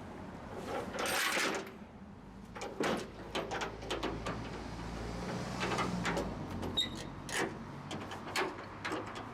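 A string of irregular knocks and rattles, with a noisy scrape about a second in and a low hum for a few seconds in the middle.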